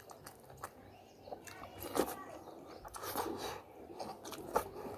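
Close-miked eating sounds of chicken legs and rice eaten by hand: chewing with scattered short clicks, loudest about two seconds in.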